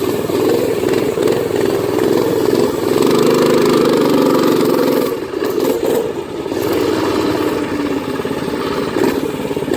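Minibike's Predator 212cc single-cylinder four-stroke engine running under throttle, its pitch rising and falling with the throttle. It is loudest and steadiest from about three to five seconds in, then eases off briefly and picks up again.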